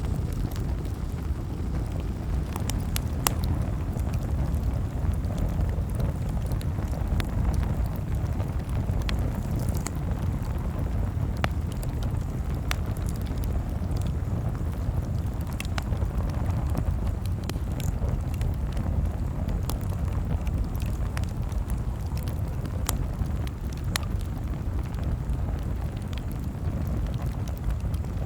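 Campfire crackling, with sharp pops of burning wood at irregular intervals over a steady low rumble.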